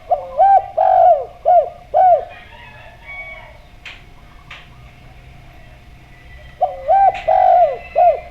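A dove cooing: two phrases of four or five rounded coos each, the first right at the start and the second about six and a half seconds in. Two short sharp chirps fall between them.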